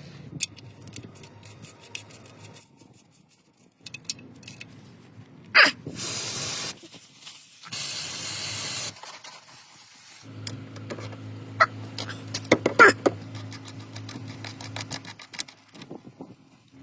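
Two bursts of hissing spray, the second longer, followed by a steady low hum with clicks and knocks over it.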